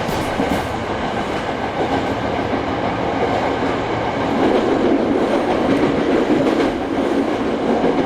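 Hankyu 6300 series electric train running along the track, heard from on board: a steady rumble and rail noise.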